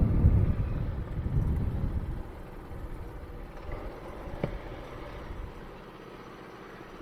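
Trailmaster MB200 mini bike engine running, loud for the first two seconds, then dropping to a lower, steadier level as the bike is brought in to park. A single sharp click about four and a half seconds in.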